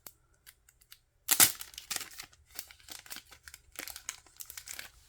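Plastic packaging of a photocard pack being torn open and crinkled: a few faint ticks, then a sudden loud rip about a second in, followed by irregular crinkling.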